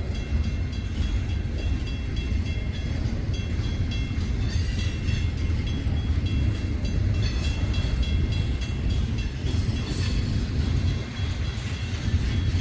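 Freight train cars rolling past, a steady low rumble with a thin high wheel squeal that comes and goes and occasional faint clanks.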